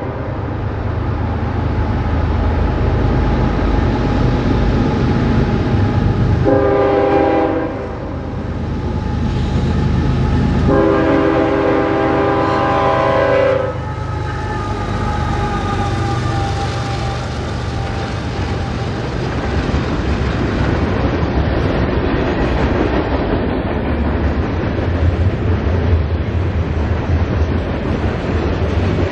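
CSX freight train approaching and passing: the locomotive's horn sounds two blasts, a short one then a longer one of about three seconds, over the diesel engine's rumble. Then the freight cars roll by with a steady rumble and wheel clatter.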